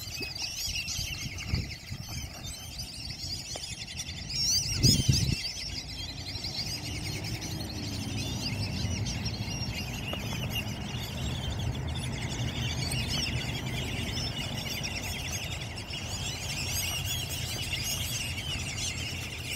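A chorus of small birds chirping and chattering continuously, with a low rumble underneath and a short thump about five seconds in.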